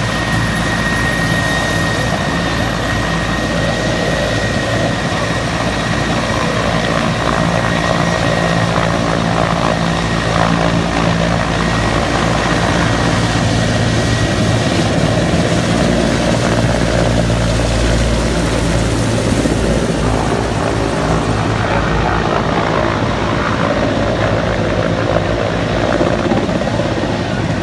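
Helicopter's rotor and engines running loud and steady at close range. A thin high whine fades out in the first few seconds.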